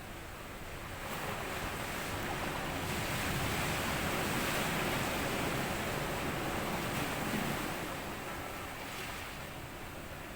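Sea waves washing up a sand beach. One wave surges in about a second in, is loudest around the middle, and draws back near the end.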